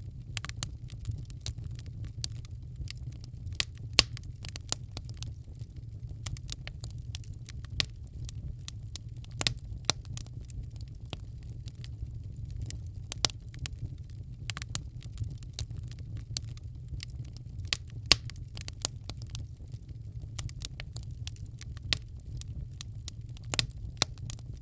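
Wood fire crackling in a fireplace: irregular snaps and a few louder pops over a steady low rumble of the flames.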